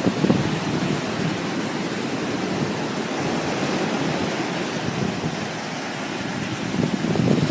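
Sea waves washing in, an even rushing noise that swells and eases, with wind gusting on the microphone.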